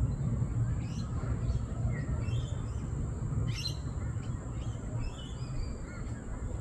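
Parrots giving short, scattered high chirps and squeaks over a steady low rumble, with one brief sharp sound about three and a half seconds in.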